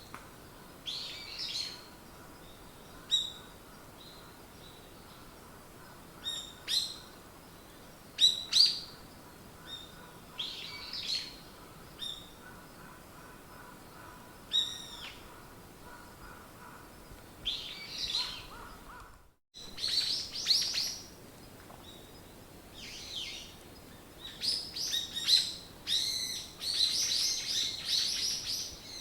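Songbirds chirping and calling, with scattered short chirps and curved whistled notes. A brief dropout comes about two-thirds of the way through, after which the chirping grows denser and overlapping.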